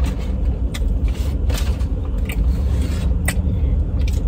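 Chewing and mouth sounds while eating, with about five short sharp clicks, over a steady low rumble.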